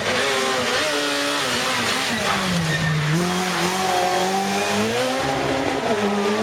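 Rally car engine running hard at high revs, its note dropping to its lowest about three seconds in, then climbing again as the throttle and gears change.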